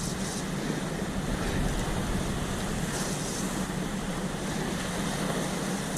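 Wind rumbling on the microphone over the steady wash of sea surf against a rocky sea wall.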